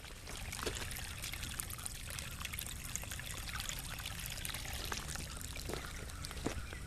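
Storm runoff water trickling and pouring steadily, with many small scattered ticks over the flow.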